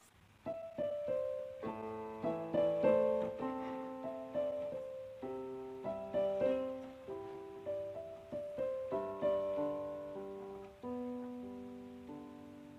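Background music: a slow, gentle solo piano piece, each note or chord struck and left to fade. The music drops out for a moment at the very start, then resumes.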